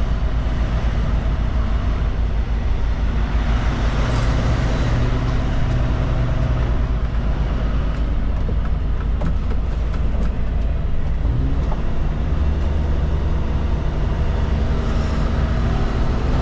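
Kenworth K200 cabover truck's Cummins diesel engine running at low speed, heard from inside the cab as a steady low drone, with a scatter of light ticks about halfway through.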